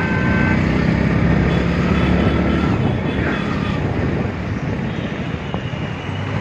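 Motorcycle engine running steadily while riding, its low hum mixed with wind rushing over the microphone.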